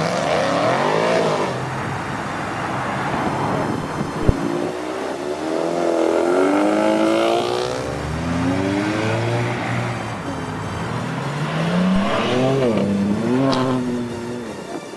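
Car engines revving and accelerating, their pitch climbing and dropping several times, with a single sharp pop about four seconds in.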